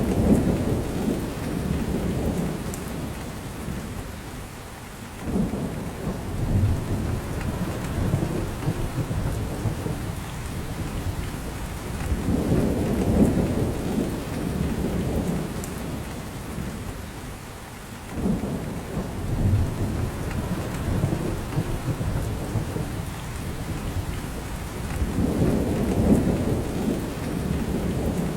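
Steady rain falling on a spruce forest and dripping from the branches. Low rumbles swell and fade about every six seconds.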